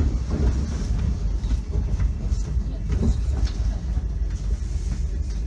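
Passenger train in motion, heard from inside the carriage: a steady low rumble from the running gear with faint irregular wheel knocks.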